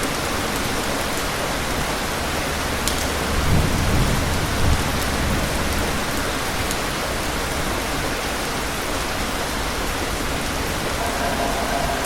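Steady rain falling, with a low roll of distant thunder about three to five seconds in. A faint steady tone comes in near the end.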